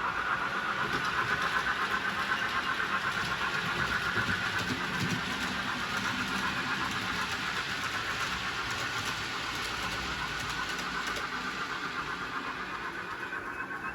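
Model railway train running along the layout's track: a steady motor whir with faint ticking from the wheels, easing off slightly near the end.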